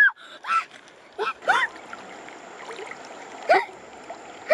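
A chicken squawking in short, upward-gliding calls, five times, over a steady watery hiss.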